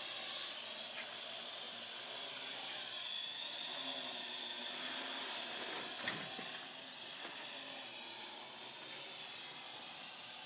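Parrot AR.Drone quadcopter in flight, its four motors and propellers giving a steady high-pitched whirring hiss with a faint whine that drifts up and down in pitch. A brief click about six seconds in.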